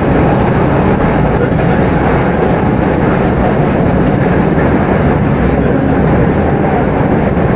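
Steady running noise heard inside a Class 387 electric multiple unit travelling at speed: an even rumble of wheels on rail with air and body noise, without change.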